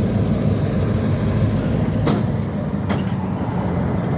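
Diesel locomotive engine running with a steady low rumble, with two sharp knocks about two and three seconds in.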